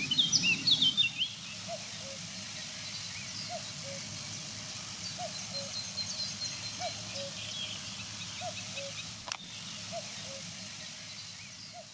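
Birds singing: a quick burst of high song in the first second, then a low two-note call, the second note lower, repeating about every second and a half over a steady hiss. A single sharp click a little after nine seconds in.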